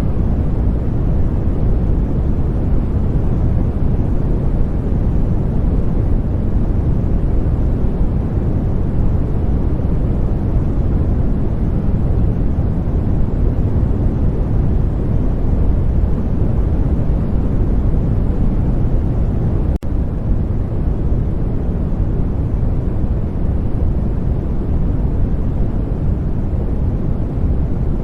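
Continuous sleep-aid noise: a steady, deep rushing hiss without any tone or rhythm, heaviest in the bass and thinning out toward the highs, with a momentary dropout about twenty seconds in.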